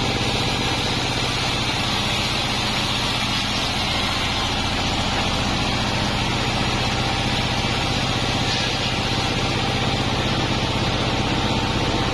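Sawmill bandsaw machine (a 36-inch Pandan Taiwan band saw) running steadily, a constant low machine hum with a hiss above it.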